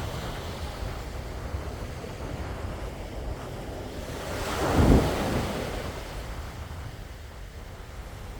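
Sea waves, with wind rumbling on the microphone; one wave swells and breaks about five seconds in, the loudest moment, then dies away.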